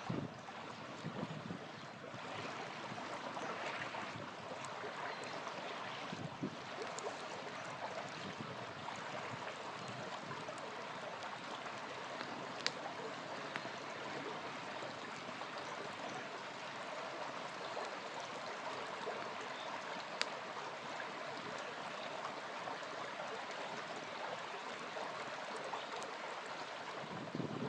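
Small river flowing steadily, with a campfire crackling over it: scattered small snaps and a couple of sharper pops of burning wood.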